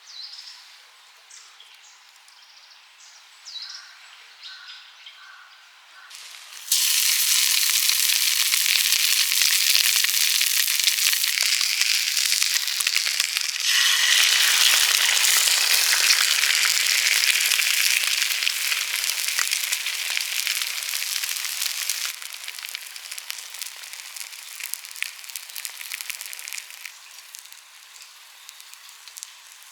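Food sizzling hard in a hot frying pan. The sizzle starts suddenly about a quarter of the way in, grows louder at mid-point, then eases to a quieter, crackling sizzle for the last third.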